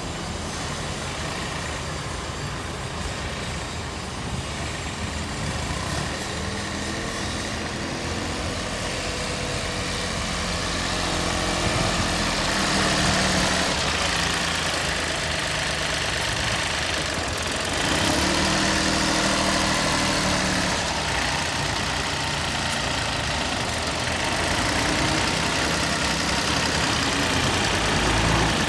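Iseki TU1400 compact tractor engine running, its speed rising and falling a few times and getting louder about a third of the way in.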